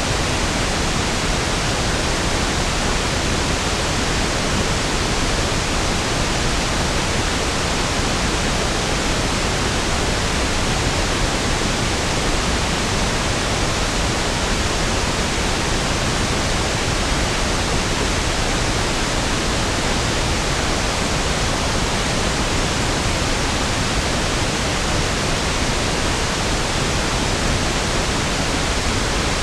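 Steady pink noise (1/f noise), an even, unchanging hiss spread from deep lows up through the highs, smoother and deeper than white noise.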